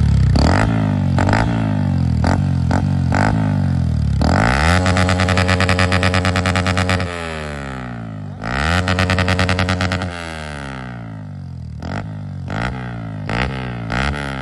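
Yamaha R15's single-cylinder engine through a modified exhaust, revved while standing: a run of quick throttle blips, then two longer pulls held high with a rapid stutter before dropping back to idle, and more short blips near the end.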